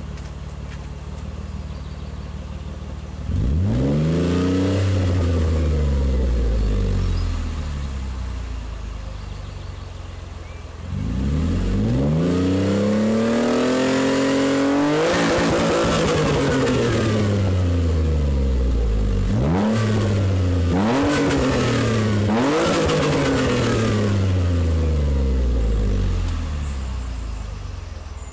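Ford Mondeo ST220's 3.0 V6 through an aftermarket Mongoose exhaust, idling and then revved several times. One short rev rises and falls back to idle. A longer rev is held high with quick blips before it drops back toward idle.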